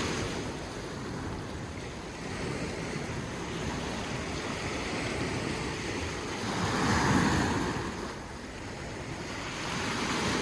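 Sea surf washing in with wind buffeting the microphone, with a louder wave surge about seven seconds in.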